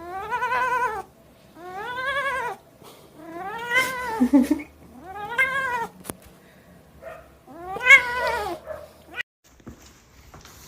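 Five long, drawn-out meows, each rising and then falling in pitch, spaced one to two seconds apart.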